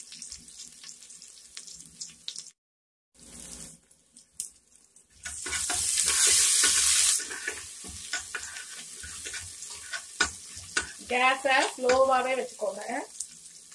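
Crushed ginger, garlic, green chilli and curry leaves sizzling in hot oil in an aluminium pressure cooker, with a spoon scraping and clicking against the pot as they are stirred and sautéed; the sizzle is loudest for a couple of seconds about five seconds in. A brief voice near the end.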